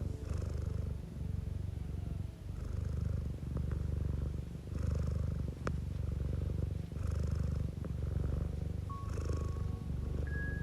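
Domestic cat purring close to the microphone: a low, steady rumble that swells and dips about once a second with its breathing.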